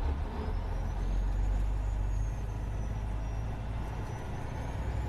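Vehicle driving, heard from inside: a steady low rumble of engine and road noise, with a faint high whine that rises and falls in pitch.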